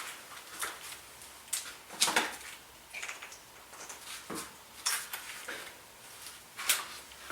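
A few separate sharp clicks and knocks of metal shock parts and tools being handled.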